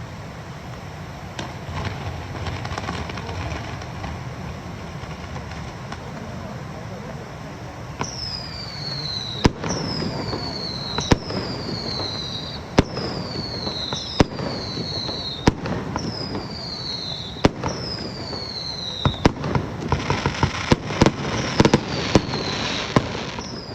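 Fireworks display. After several seconds of crowd murmur, a run of whistling shells goes up one after another, each a falling whistle that ends in a sharp bang, about every one and a half seconds. Near the end comes a burst of rapid crackling pops.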